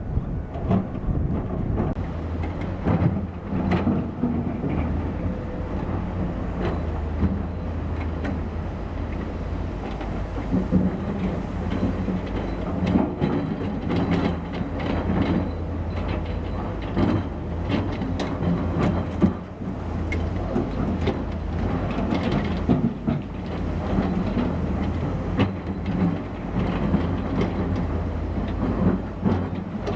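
Diesel engine of heavy construction machinery running steadily, with frequent metallic knocks and clanks over it.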